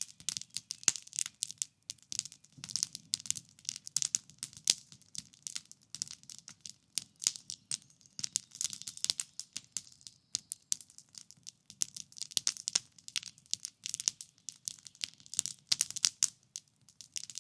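Wood campfire crackling, with dense, irregular pops and snaps over a faint low rumble of the burning fire.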